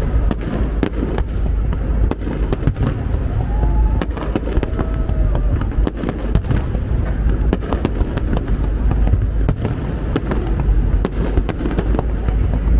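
Fireworks display going off: a rapid, irregular string of bangs and crackles over a continuous low rumble of bursting shells.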